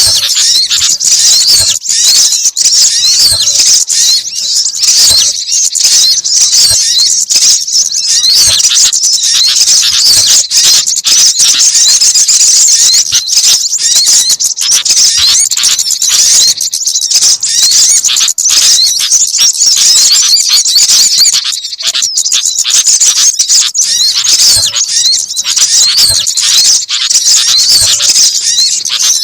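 Bird-lure recording of many small songbirds calling at once: a dense, continuous chorus of quick, high-pitched chirps and twitters.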